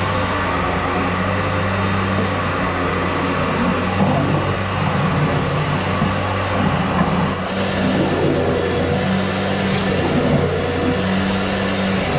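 Steady hum of an electric motor running continuously, likely powering drain-clearing equipment at work on a blocked drain.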